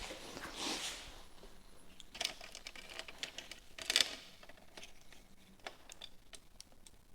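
Faint scattered clicks and taps with a few soft rustles, the loudest a sharp knock about four seconds in.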